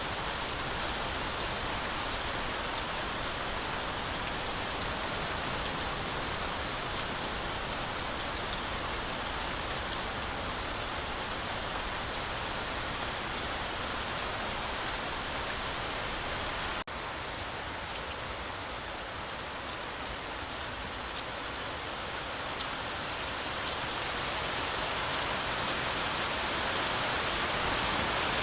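Heavy rain falling steadily through forest trees, an even hiss with no pauses. A brief drop-out about two-thirds of the way through, then it builds a little louder near the end.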